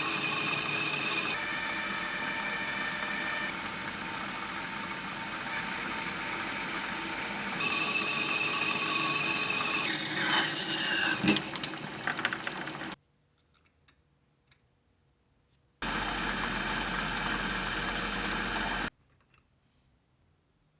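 Electric power tool running steadily in several cut-together clips. One clip ends with the motor spinning down in a falling whine with a few clicks, then after a pause the tool runs again briefly and stops suddenly.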